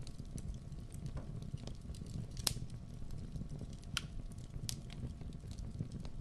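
Wood fire burning in a fireplace: a steady low rumble of flames with scattered crackles and pops, the sharpest pop about two and a half seconds in.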